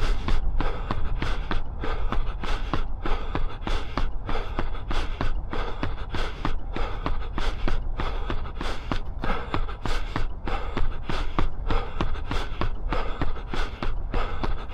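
A runner's footfalls on pavement at a steady threshold pace, about three strikes a second, with low wind rumble on the body-worn action camera's microphone.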